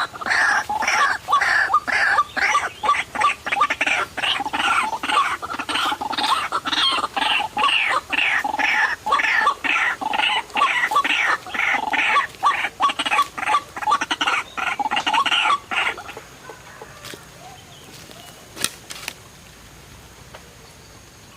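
White-breasted waterhen calling: a long run of harsh, rapidly repeated 'ruak' notes, about three a second, that stops abruptly about 16 seconds in. A few faint clicks follow.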